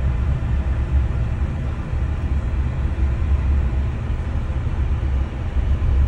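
Steady low rumble of a vehicle running, with no breaks or sudden sounds.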